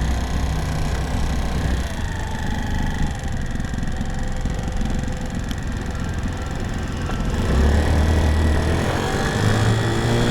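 TaoTao 50cc scooter's GY6-type four-stroke engine running under way, with wind noise over it; the engine note rises in the last few seconds. It is held to about 30, with a sound the rider takes for the drive belt or clutch slipping.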